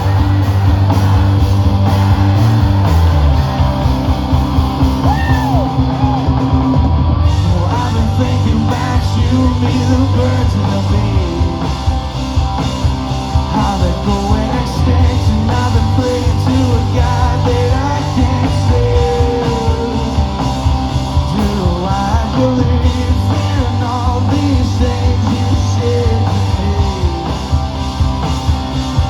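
Live rock band playing loudly, with singing over the music.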